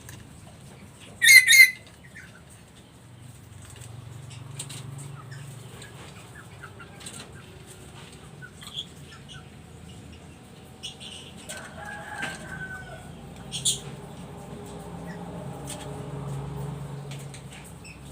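Black-capped lory, a parrot, giving one loud, short burst of sound a little over a second in, then scattered soft clicks and short chirps, with another brief sharp call about thirteen seconds in.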